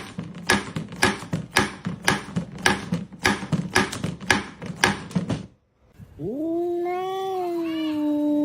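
A rapid run of sharp, noisy bursts, about three a second, stops abruptly. After a short break, a cat starts a long, steady, low yowl about six seconds in.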